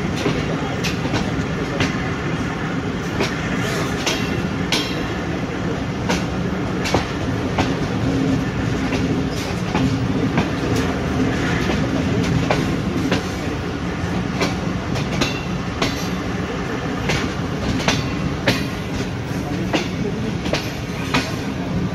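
Passenger coach running along the track, its wheels clicking over rail joints above a steady rumble of the moving train, heard close from the coach's open window.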